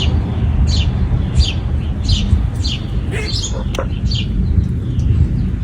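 A small bird chirping over and over, short high notes that drop in pitch, repeated roughly twice a second. Under it runs a loud, steady low rumble.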